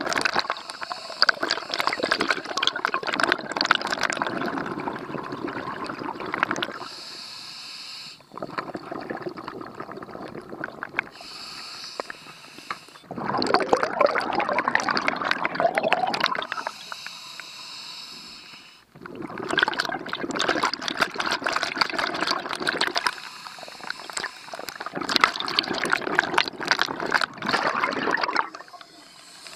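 Scuba diver breathing through a regulator, heard underwater. A short hiss on each inhale alternates with a longer stream of bubbling exhaust on each exhale, in a slow, regular cycle of about four breaths.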